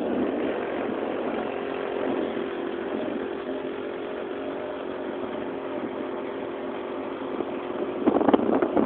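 A mini bike's small engine running at a steady speed, growing louder and rougher about eight seconds in.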